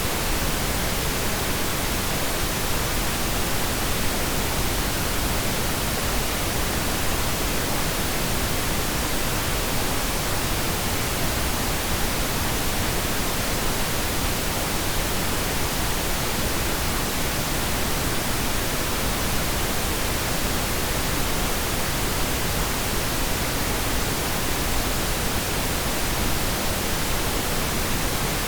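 Steady pink noise: an even, unchanging hiss spread across the whole range, with no separate events.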